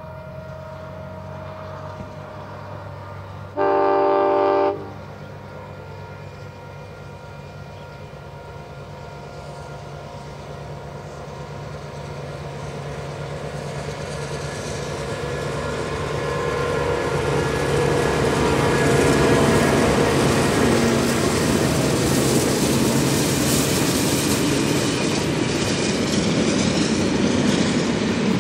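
A passing train made up of diesel locomotive 4201 leading steam locomotive 3801 and a rake of passenger carriages. One loud horn blast of about a second comes near the start. Then the diesel engine's drone and the rolling wheels grow steadily louder as the train draws near, and the carriages clatter past over the rail joints.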